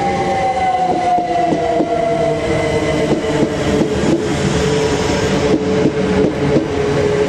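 c2c Class 357 Electrostar electric multiple unit coming in to the platform, its traction motor whine falling steadily in pitch as the train slows, over wheel and rail rumble with short clicks.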